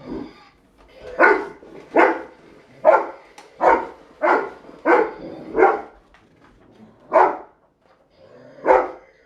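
Rottweiler barking, about nine barks, mostly around one a second with a pause of over a second partway through.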